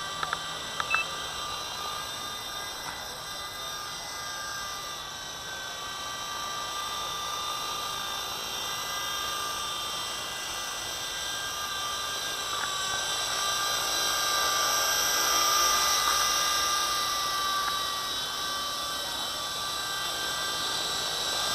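V913 RC helicopter hovering: a steady high electric whine from its main motor and rotor, several even tones with a hiss above, growing a little louder partway through.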